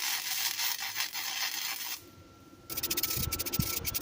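Wire-feed welder's arc crackling and sizzling as a steel exhaust pipe section is welded, in two runs with a short break about two seconds in.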